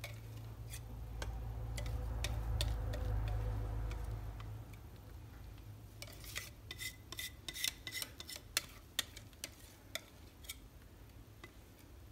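Spatula scraping the last of the cake batter out of a mixing bowl into a cake tin, followed in the second half by a quick run of light clicks and taps against the bowl and tin.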